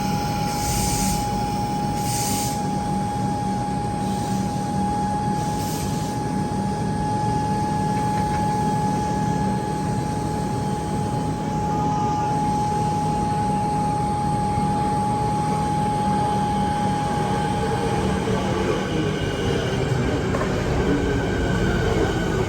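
Train moving through the station with a steady, high wheel squeal over a low rumble and hum. The squeal stops about three-quarters of the way through, and wavering squealing tones come in near the end.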